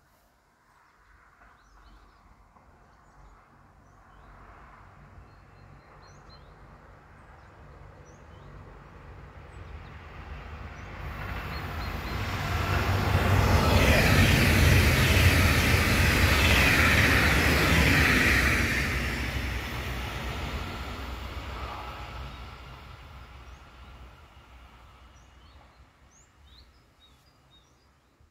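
A train approaching and passing by. The rumble and rail noise build slowly, are loudest for several seconds around the middle, then fade away over the last seconds.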